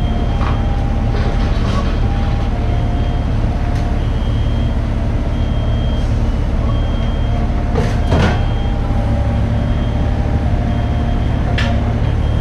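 Mini excavator's diesel engine running steadily, with an electronic warning alarm beeping on and off and a couple of sharp metal knocks, the louder one about two-thirds of the way in.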